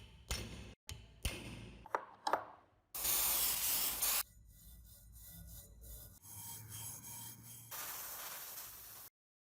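Hand work on a rusty antique chain wrench in short cut-together clips: rubbing and scraping of metal, with two sharp clinks about two seconds in and a loud stretch of abrasive scrubbing around three to four seconds in. The sound cuts off abruptly near the end.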